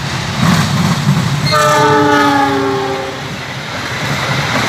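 Diesel locomotive hauling a passenger train through the station at speed. It sounds its horn once, a multi-tone chord of about a second and a half starting about a second and a half in, whose pitch drops slightly as it passes. The engine rumble and the coaches' wheels clattering over the rails carry on past.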